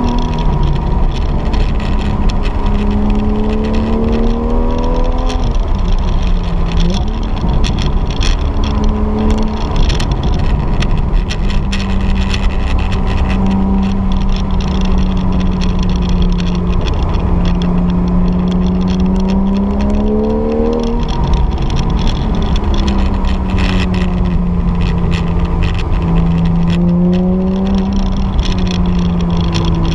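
Porsche 911 GTS's flat-six engine heard from inside the cabin while driving. Its note climbs with the throttle and drops sharply at gear changes a few times, over steady road and tyre rumble.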